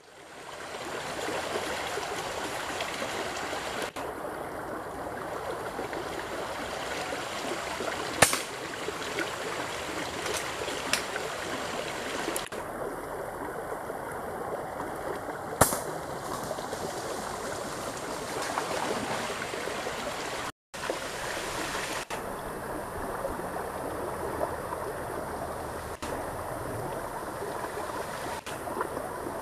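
Shallow river flowing over stones, a steady wash of water noise that fades in at the start. Two sharp clicks stand out, about a quarter and halfway through.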